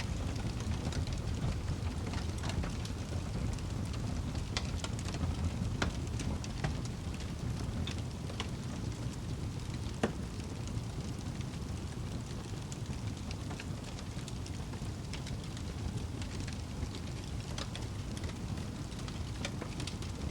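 Wood fire burning in a fireplace: a steady low rumble of flames with scattered crackles and pops, one sharper pop about halfway through.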